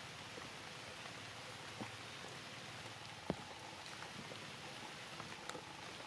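Steady light rain falling on grass and stone, with scattered drips. A single sharp tap comes about three seconds in.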